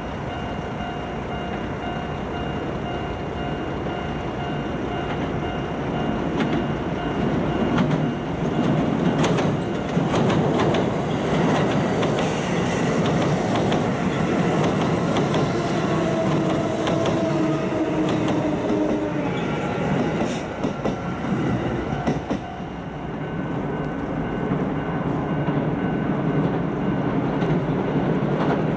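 Electric commuter trains running over a low steel railway bridge: a steady rumble of wheels and bridge with the whine of the traction motors, and wheels clicking over rail joints in a burst about a third of the way in and again later.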